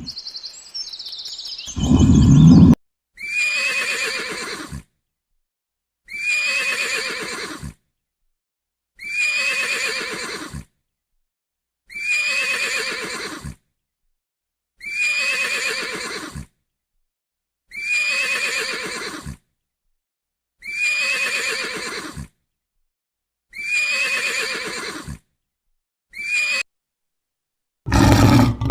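A horse whinnying: the same call repeated about eight times at even intervals of roughly three seconds, with silence between, the last one cut short near the end.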